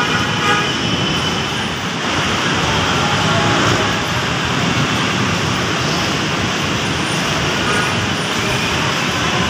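Steady noise of heavy city road traffic.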